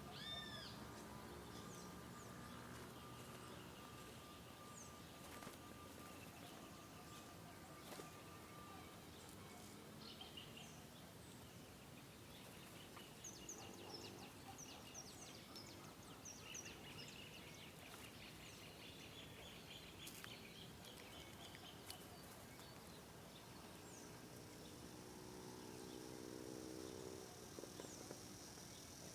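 Mixed wild birds calling faintly: scattered short high chirps and trills, with a lower, repeated call near the end, over a steady background hiss.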